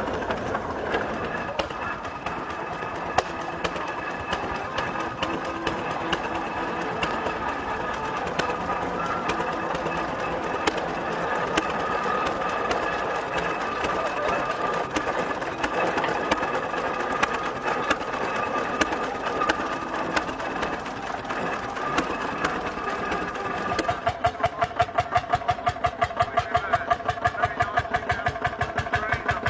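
A busy mix of background voices and machinery, then, about 24 seconds in, an engine running with a slow, even beat of about four pulses a second.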